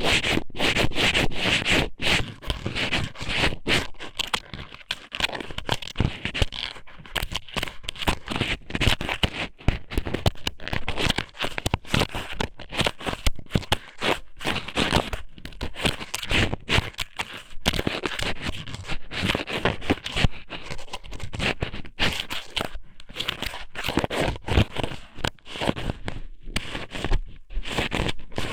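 Strips of raw squid (ika somen) pushed into and rubbed around the ear of an ear-shaped ASMR microphone, heard very close: a continuous, irregular run of scraping and rubbing strokes, several a second.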